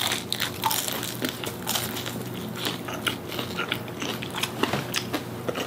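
Biting into battered, deep-fried soft-shell crab and chewing it, with many irregular crisp crunches.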